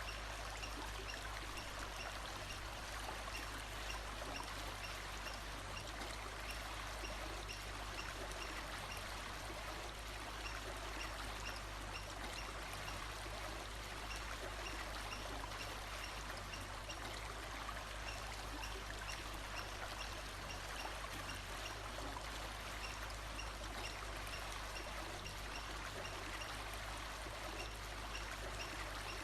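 Steady running stream water, with a faint short high note repeating regularly, about once a second.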